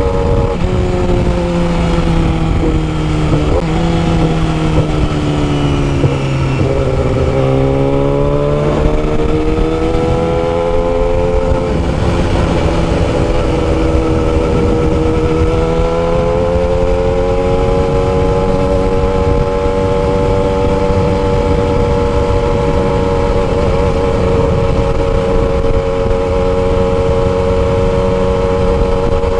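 Yamaha R6 600cc inline-four through a custom exhaust, heard while riding. The engine note falls as the bike slows, rises again with a short dip at a gear change, then holds a steady pitch while cruising, under heavy wind rush on the microphone.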